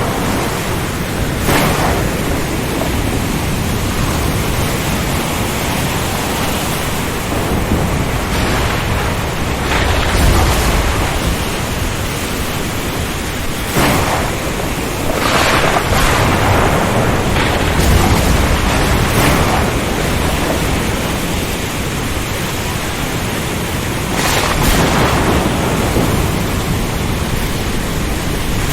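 Ocean storm soundscape: a steady roar of heavy rain, wind and surf, with several sharp crashes and deep rumbles of thunder through it.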